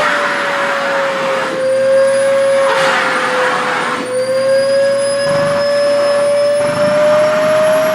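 SHARP EC-KP7F-A vacuum cleaner running steadily while sucking at a thin organza skirt. A strong motor whine dips slightly in pitch and climbs back again, over a rushing of air that swells now and then, loudest about three seconds in.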